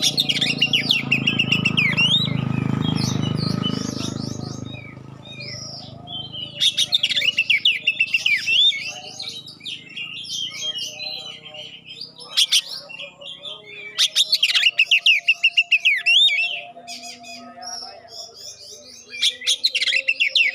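Oriental magpie-robin (kacer) singing loud, clear phrases of rapid sweeping whistled notes, about five bursts separated by short pauses. A low rumble sits under the song for the first few seconds.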